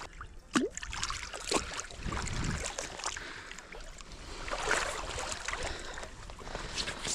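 Someone wading through shallow river water: sloshing and splashing, with a few sharp knocks.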